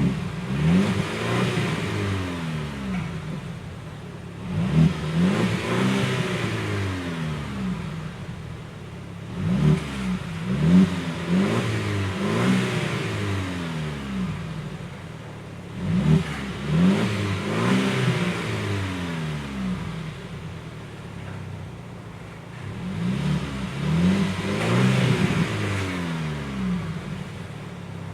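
A Tank 300 SUV's engine being revved in repeated blips, about five groups of rising and falling revs a few seconds apart, settling back to idle in between.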